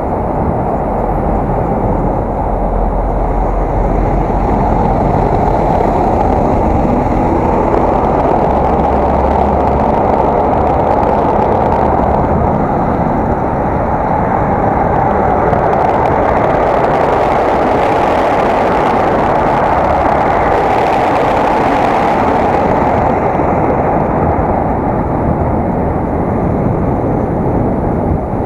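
Steady rushing wind and rolling noise picked up by an action camera on a moving bicycle. It swells and grows brighter for several seconds past the middle, then settles back.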